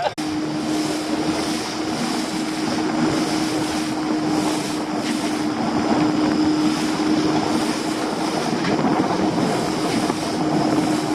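Small boat's engine running steadily under way, a constant even-pitched drone over a rush of wind and water.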